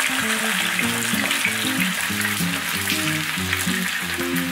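Potato slices frying in hot oil in a frying pan, a steady sizzle with fine crackles, as a spatula turns them over. Background music with a melody plays under it.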